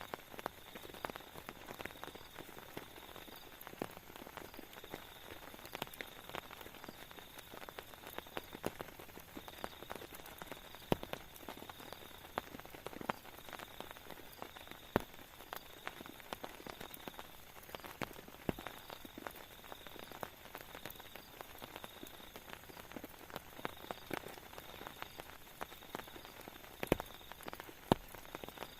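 Raindrops tapping irregularly, a few single drops much louder than the rest, over a faint hiss of rain. A faint high-pitched trill comes and goes every second or two.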